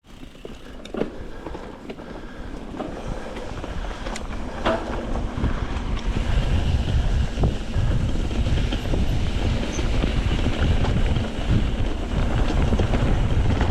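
Wind buffeting the microphone: a rumbling noise that builds over the first several seconds and then holds steady, with a few sharp clicks early on.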